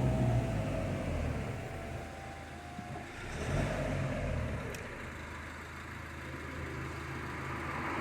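Iveco Daily 2.3 HPi four-cylinder turbo-diesel engine idling steadily and smoothly just after start-up, heard from the cab.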